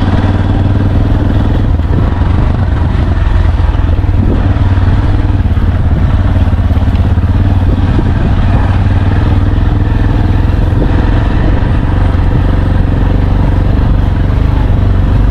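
A motor vehicle driving along, its engine running steadily with road noise, loud and unchanging throughout.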